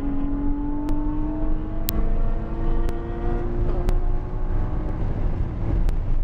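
Porsche Cayman GT4 flat-six engine running at steady, moderate revs after a lift off the throttle. Its pitch holds level with a small step up about two seconds in, over heavy road and wind rumble. Sharp clicks recur roughly once a second.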